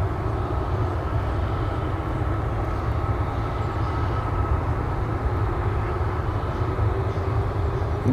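Jet airliner taking off on a far runway: a steady low rumble of engines at takeoff power.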